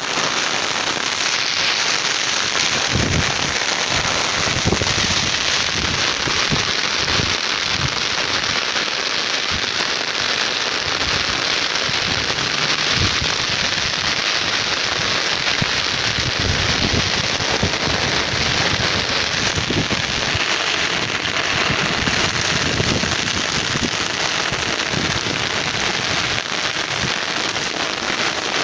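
Rain falling steadily on open farmland, a dense hiss with irregular low thumps scattered through it.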